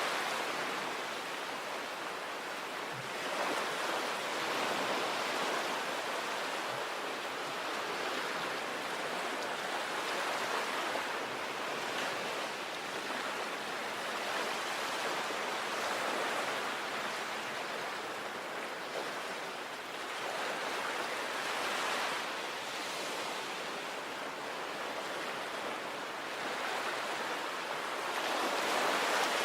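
Sea waves breaking and washing up a beach, a steady rushing surf that swells and eases every few seconds.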